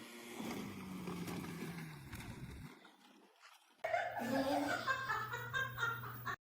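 A person laughing, starting about four seconds in, after a few seconds of low steady hum; the sound cuts off abruptly just before the end.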